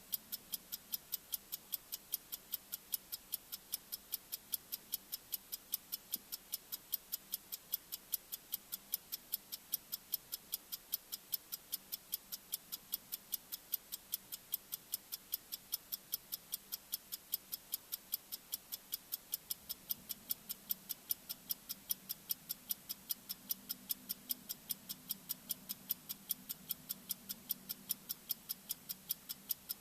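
Bomb-timer ticking sound effect: sharp, evenly spaced clock-like ticks, a few a second, with a faint low drone underneath that swells a little about two-thirds of the way through.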